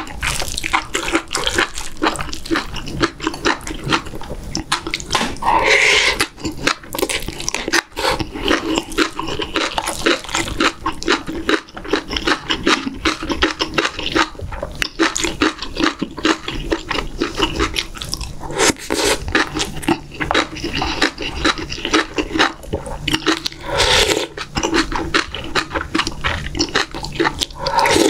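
Close-miked eating sounds: steady wet chewing and smacking of spoonfuls of rice and beef-rib doenjang stew, with many small sticky mouth clicks.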